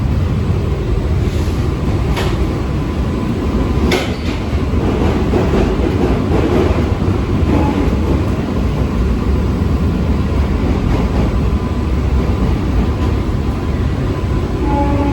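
Steady rumble and rail noise of an AC electric suburban local train running, heard from inside the coach, with a couple of sharp clicks about two and four seconds in.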